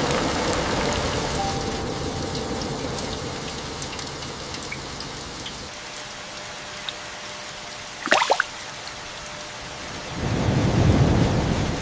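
Steady monsoon rain falling. A sharp crack of thunder comes about eight seconds in, followed near the end by a low rumble of thunder.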